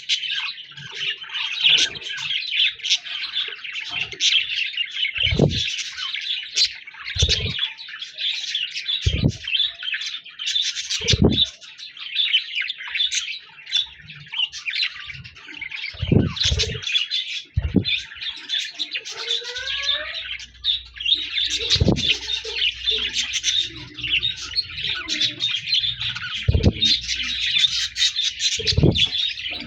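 Several budgerigars chattering and warbling without pause, a dense, busy twitter, with a dozen or so short low thumps scattered through it.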